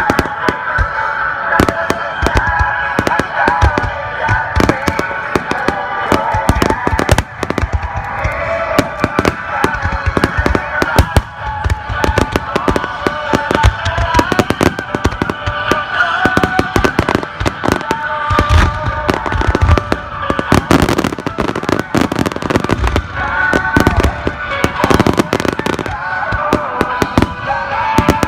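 Fireworks going off in rapid, continuous succession, sharp cracks and bangs with deeper booms bunched about two-thirds of the way in, over music.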